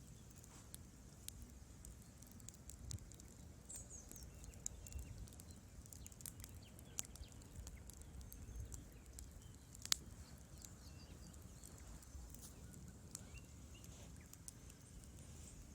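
Wood fire in a fireplace crackling faintly, with irregular small pops of burning logs and one sharper pop about ten seconds in, over a low rumble.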